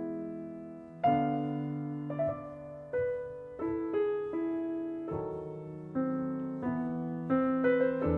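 Background piano music: slow, soft notes and chords, each struck and left to fade.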